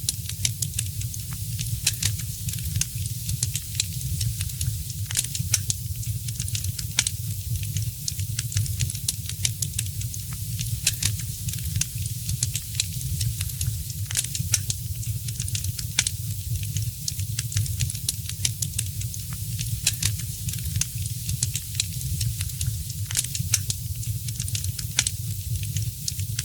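Wood fire crackling in a fireplace: frequent sharp, irregular pops and snaps over a steady low rumble and soft hiss of the flames.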